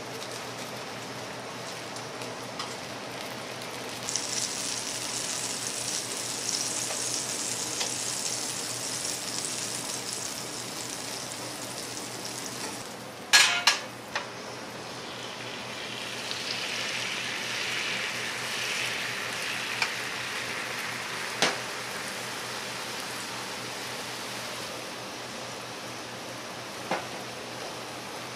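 Food frying on a hot cooking surface, a steady sizzling hiss that swells a few seconds in and turns lower and softer past the middle. A brief loud clatter of sharp knocks comes about halfway through, and single knocks follow later.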